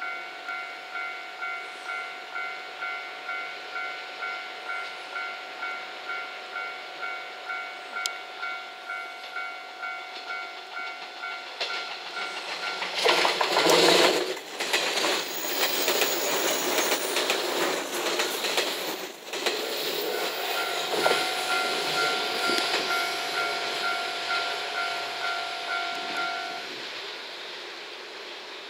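Level-crossing alarm ringing in a steady two-beats-a-second electronic clang, then a JR West 115 series four-car electric train passing over the crossing with rushing wheel noise and clatter, loudest about halfway through. The alarm keeps ringing under the train and stops shortly before the end.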